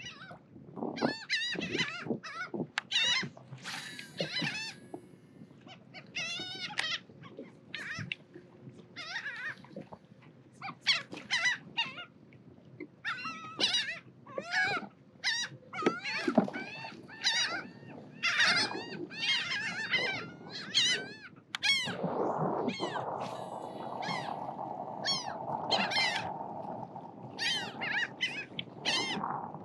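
A flock of birds calling over and over, with many short pitched calls close together and overlapping. From about two-thirds of the way through, a steady rushing noise runs beneath them.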